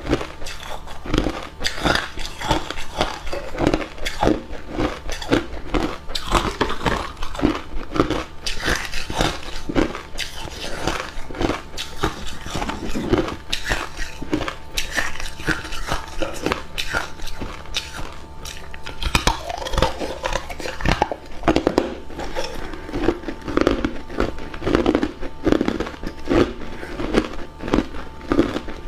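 Hard cube ice being bitten and chewed close to the microphone: a continuous run of rapid, irregular crunches.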